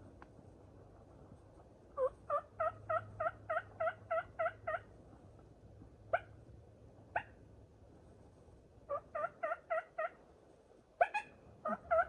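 Turkey yelps: a run of about eleven evenly spaced yelps, about four a second, then two single notes, then another run of five, and a few sharper notes near the end.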